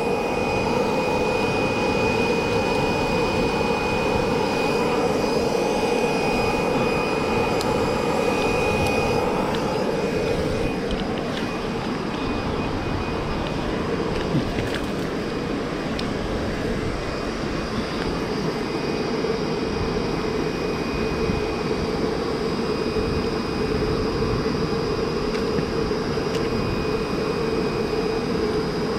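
Steady mechanical drone with a faint high whine over it. It carries on evenly with only a few faint clicks.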